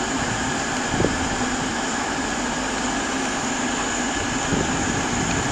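Class 222 Meridian diesel multiple unit running steadily, a continuous engine and rail hum, with a single brief knock about a second in.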